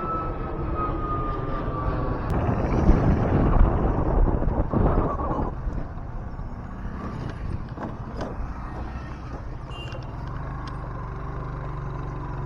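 Road and traffic noise on a moving motorbike ride. A louder rush of passing traffic comes between about three and five seconds in, then a steady low engine hum.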